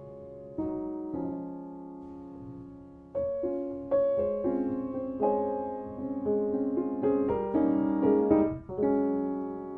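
Soft piano background music, slow held chords at first, then a fuller run of notes from about three seconds in.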